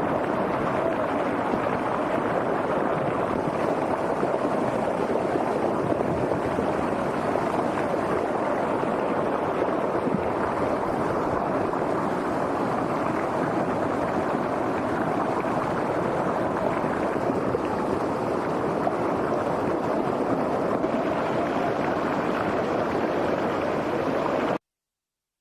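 Rushing floodwater: a steady, dense rush of fast-flowing water that cuts off suddenly near the end.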